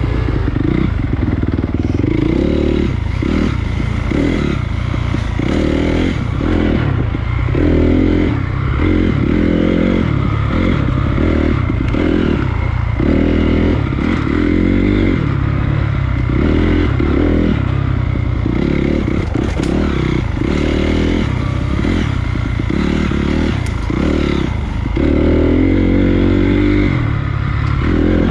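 Honda CRF250 dirt bike's single-cylinder four-stroke engine riding a trail, revving up and easing off every second or two.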